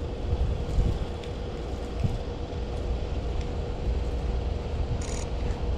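Blizzard wind rumbling on the microphone over steady outdoor street noise with a faint constant hum. About five seconds in there is a short high hiss.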